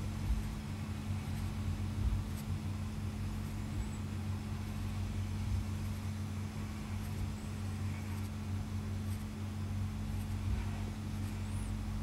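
Steady low hum in the background, with a few faint clicks and small high chirps.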